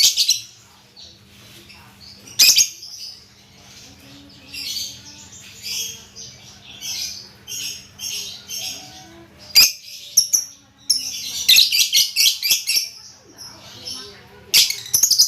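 Pet songbird chirping and twittering in quick high bursts, with a few sharp clicks about two and a half and nine and a half seconds in, over a faint steady hum.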